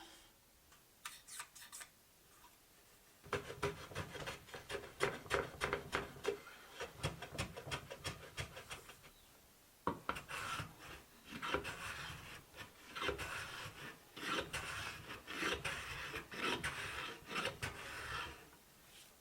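Wood being abraded by hand: quick back-and-forth scraping strokes, a few light ones at first, then two long runs with a short pause between them.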